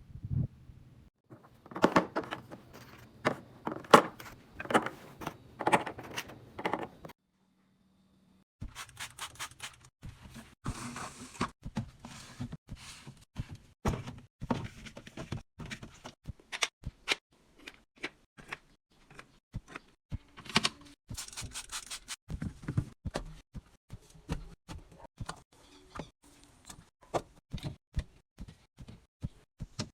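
Groceries and plastic containers being handled and set onto fridge shelves: a long run of irregular clicks, taps and knocks with some crinkling of packaging. The sound cuts out completely for a moment about seven seconds in.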